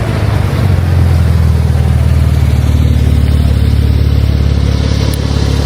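A car engine running loudly with a low, steady drone.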